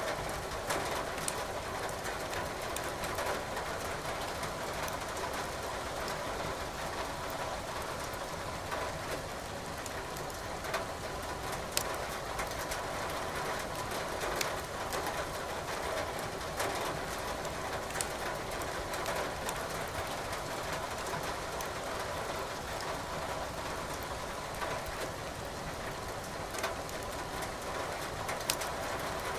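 Burning logs crackling in a fireplace, with irregular sharp pops scattered over a steady hiss of rain.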